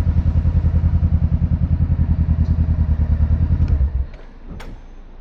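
Motorcycle engine idling with an even low pulse, then shut off about four seconds in; a few light clicks and a clack follow.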